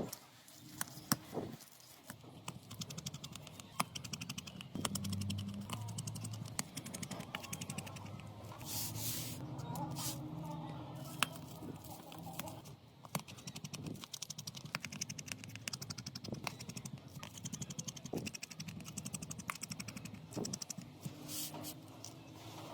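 Irregular small clicks and taps of tools and phone parts being handled during a repair, over a low steady hum.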